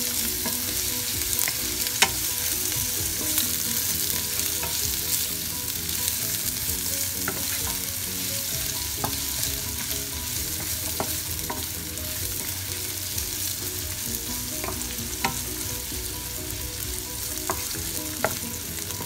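Sliced raw onions sizzling in hot oil in a nonstick frying pan while a wooden spatula stirs and scrapes them, with occasional sharp ticks. This is the first fry of onions just added to oil tempered with mustard seeds.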